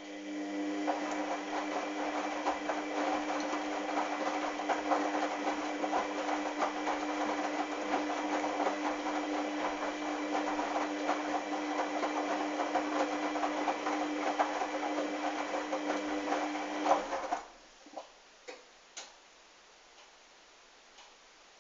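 Hoover washing machine running mid-wash: a steady motor hum with a crackling, churning noise over it, which starts at once and stops abruptly after about 17 seconds. A few separate clicks follow.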